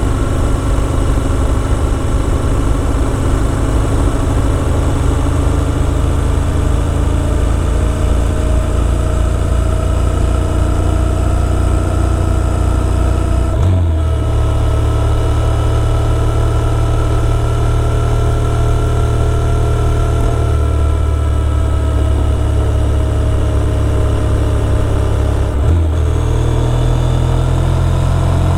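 Motorcycle engine running under way at a steady pace, its note slowly gliding. There are two brief breaks, about 14 and 26 seconds in, after which the engine note settles at a new pitch, as at a gear change.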